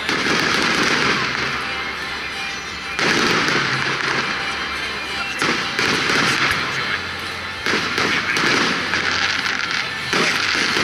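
Aerial fireworks bursting overhead: about half a dozen sudden bangs, each trailing off into a long crackle.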